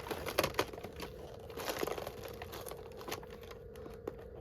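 Packaging crinkling and rustling in irregular small crackles as an advent calendar compartment and the thin item packet inside are opened and handled, a little louder about half a second in and again around two seconds in.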